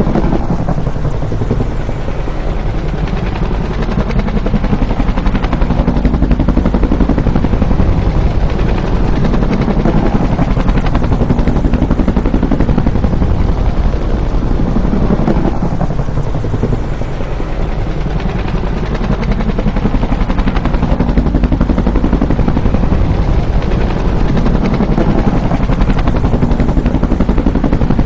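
Bell UH-1 'Huey' helicopter passing by, its two-bladed main rotor beating in a dense, rapid chop under the turbine's noise. The pitch sweeps up and down as it passes, and the pass repeats about every 15 seconds.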